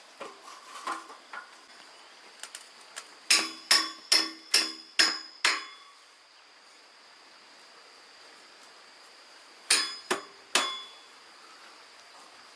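Hammer striking iron bars, with metallic ringing: six even blows at about two a second, then a pause and three more quick blows near the end.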